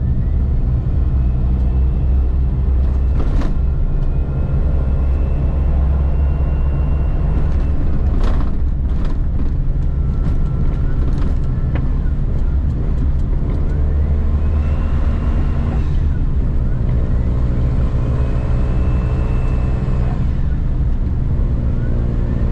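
Suzuki Jimny JB23W's 660 cc turbo three-cylinder engine running steadily through an aftermarket J-FORCE short cannonball muffler, a continuous low exhaust drone.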